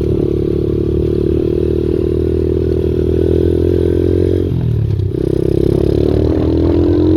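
Pit bike's single-cylinder engine running under load while riding. The revs dip briefly about four and a half seconds in, then climb steadily toward the end.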